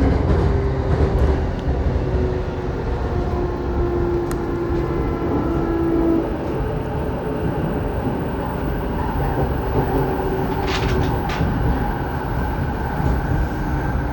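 JR Saikyo Line electric commuter train running between stations, heard from inside the carriage. It makes a steady low rumble of wheels on rail under a faint steady hum, with a few sharp clicks about two-thirds of the way through.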